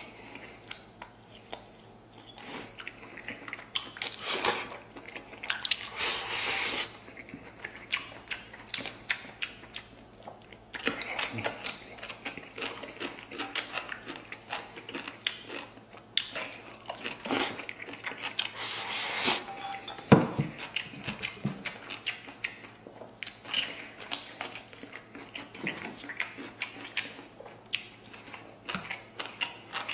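Close-miked chewing and biting of braised pork intestines and pork belly, with many short, irregular wet clicks throughout.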